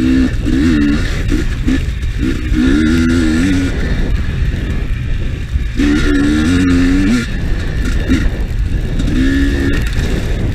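GasGas EC300 two-stroke enduro bike engine revving in four bursts as the throttle is opened and eased, the pitch wavering up and down, over a steady low rumble.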